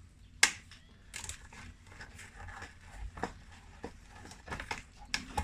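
Irregular clicks and light knocks of a hand tool and small parts being handled while screws are undone from a chainsaw's plastic housing, with one sharp click about half a second in.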